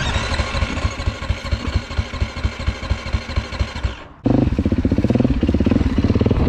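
Dirt bike engine running at low revs with an uneven, pulsing beat. A little after four seconds the sound changes abruptly to a louder, steadier engine note.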